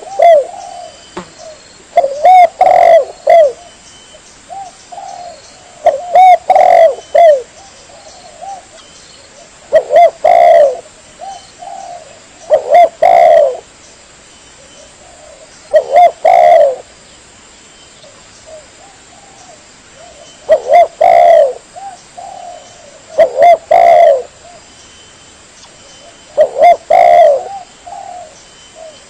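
Spotted dove (tekukur) lure call: loud cooing phrases of a few notes each, repeated about every three to four seconds.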